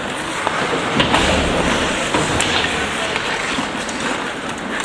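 Ice hockey rink sounds during play: a steady scraping hiss of skates on the ice, with several sharp clacks of sticks and puck scattered through.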